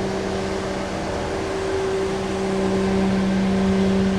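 A large engine running steadily at constant speed, an even droning hum that holds one pitch.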